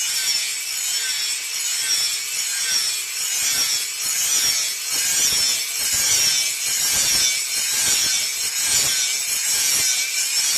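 Steel boti blade being sharpened: a steady run of rasping, scraping strokes of metal worked against an abrasive, swelling and easing in a regular rhythm.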